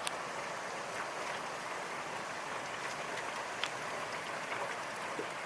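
Steady rain falling, an even hiss with a few scattered sharper drop ticks.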